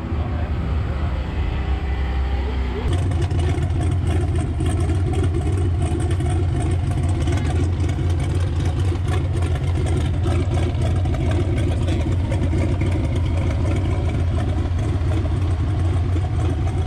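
Engine of a turbocharged Chevrolet Camaro idling steadily, getting louder about three seconds in.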